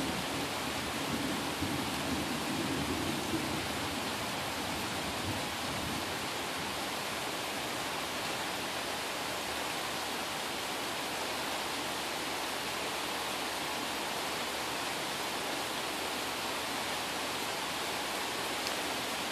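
Steady rain of a night-time shower, an even hiss. A low rumble of thunder fades out in the first few seconds.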